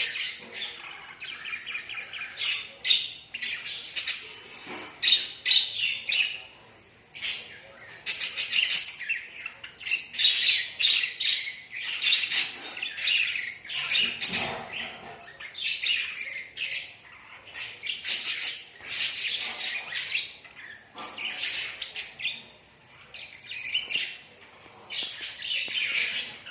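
Budgerigar chirping in repeated bursts of quick, high chirps, with short pauses between bursts.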